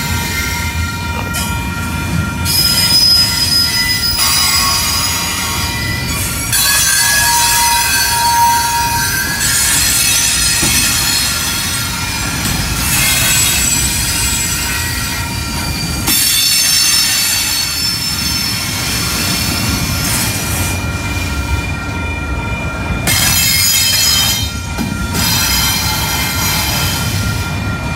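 Double-stack intermodal freight train rolling past at a grade crossing: a steady low rumble of the cars, with high-pitched wheel squeal that comes in stretches of a few seconds and fades between them.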